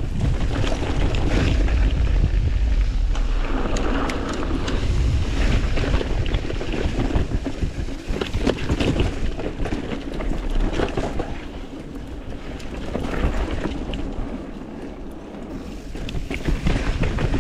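Wind buffeting the microphone as a mountain bike rides fast down a rough dirt trail, with a steady rushing rumble and scattered rattles and knocks from the bike over the terrain.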